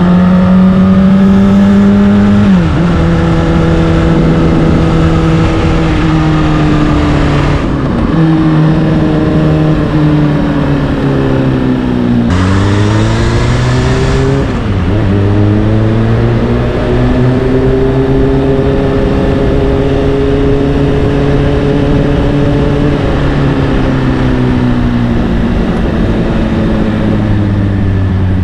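Honda CBR600RR's inline-four engine through an Akrapovic exhaust, ridden on the road. The pitch climbs and drops sharply at two gear changes in the first eight seconds, dips and picks up again about halfway, then rises slowly under steady throttle and eases off near the end.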